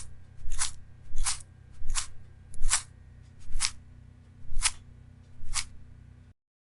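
Eight short scraping swishes, about one a second, over a low steady hum, all stopping abruptly near the end.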